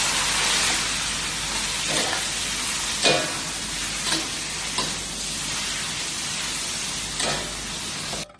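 Food sizzling loudly as it is stir-fried in a pan, with a handful of spatula scrapes and knocks standing out. The sizzling cuts off suddenly near the end.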